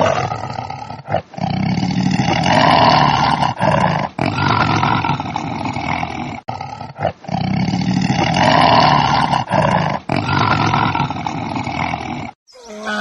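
Elephant calling in a series of long, loud, rough roars separated by short breaks. The same run of calls repeats about halfway through.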